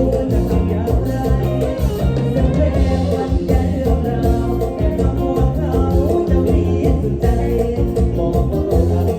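Live Isan band playing upbeat toei lam music: a steady driving beat with a strong bass line and keyboard.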